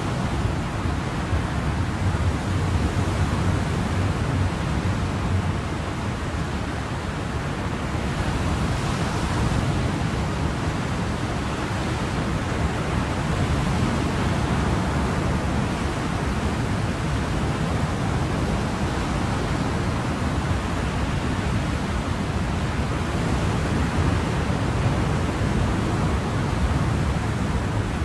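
Ocean surf: a steady wash of waves with only slight slow swells in loudness and no distinct breaks.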